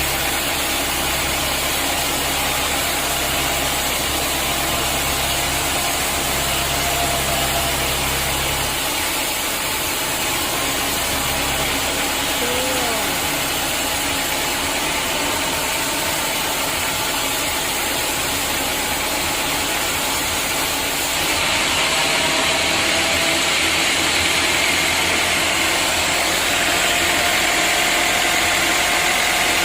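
Sawmill machinery running steadily. A low hum drops out about a third of the way in, and the noise grows louder and higher near two-thirds of the way through.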